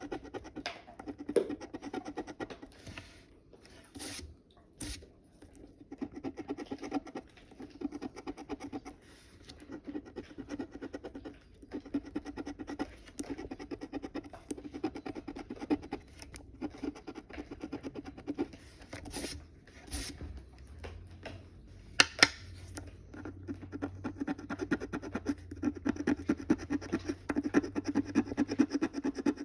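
Scratch-off lottery ticket being scratched: a run of quick back-and-forth rubbing strokes wearing off the coating, broken by a few sharper clicks.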